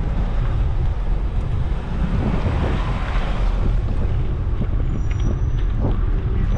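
Wind buffeting the microphone while riding a bicycle, with the noise of a passing car swelling and fading about two to four seconds in.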